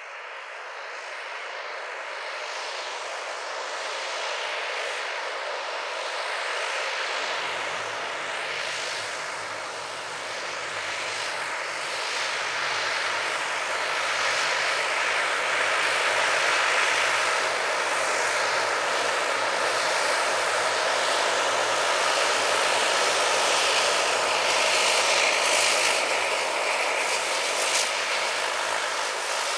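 Canadair CL-415 water bomber's two Pratt & Whitney PW123AF turboprops running, growing louder over the first half and then holding steady.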